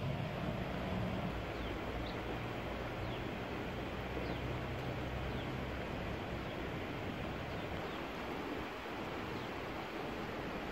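Outdoor ambience: a steady hiss with faint, short high chirps now and then. A low hum fades out about six seconds in.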